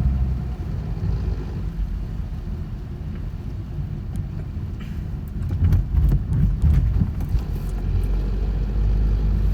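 Low, steady rumble of a car being driven, heard from inside the cabin. A few small knocks and clicks come in the middle.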